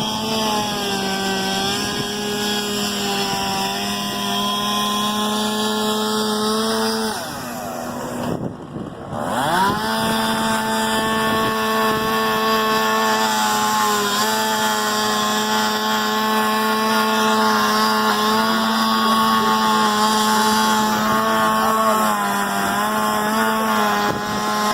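A motor-driven machine running steadily at high speed. About seven seconds in, its pitch and level sag, then climb back up over the next couple of seconds, and it holds steady again.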